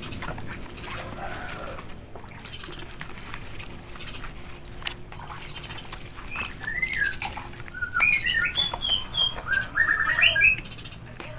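Small bird chirping: a run of short, high chirps and quick rising and falling notes in the second half, over faint clicking and rubbing.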